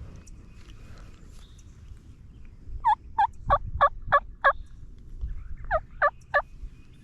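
Turkey yelping: a run of six quick yelps about three seconds in, about three a second, then a pause and three more near the end.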